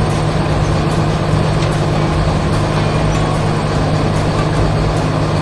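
Heavy construction machine's diesel engine running steadily under load, a constant low drone.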